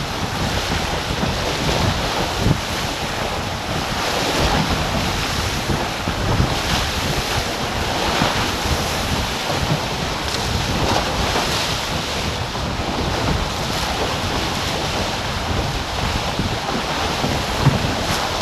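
Wind buffeting the microphone and water rushing past the hulls of a racing catamaran under sail: a steady, noisy rush, with a brief knock near the end.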